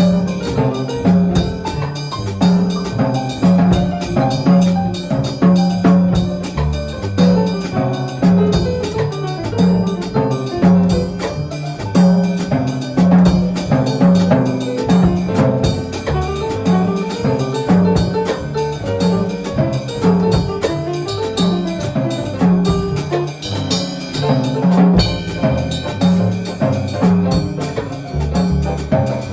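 A small jazz band playing an upbeat tune, with drum kit, cymbals and a steadily repeating bass line under the melody.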